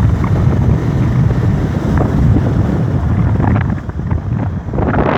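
Wind buffeting the microphone of a moving bike, a loud, steady low rumble that eases slightly about four seconds in.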